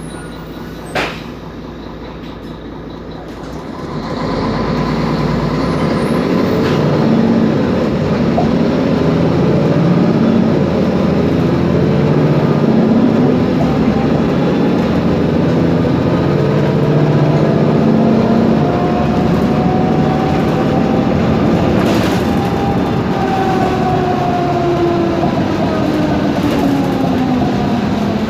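Mercedes-Benz Conecto G articulated city bus with an OM457LA diesel getting under way: after a sharp click about a second in, the sound grows louder about four seconds in and runs on steadily with rattling, under a whine that climbs slowly in pitch and then falls away after about twenty seconds. The whine is the differential sound the recording is made for.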